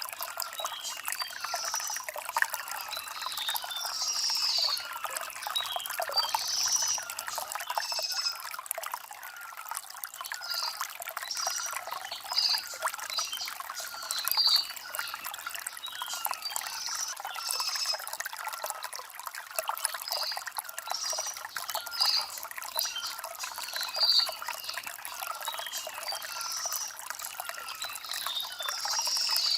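Shallow stream trickling and burbling over river stones, with short high bird chirps every second or two.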